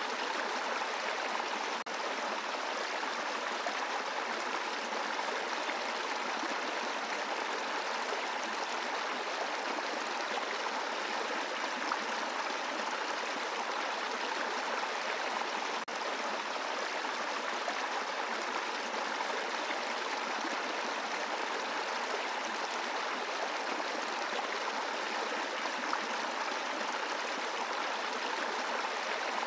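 Small brook running over a bed of rocks: a steady, even rush of flowing water.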